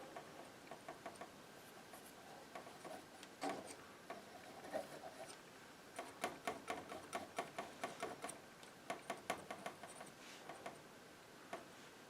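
Palette knife dabbing and tapping paint onto a canvas: runs of light, quick taps, several a second, busiest in the second half.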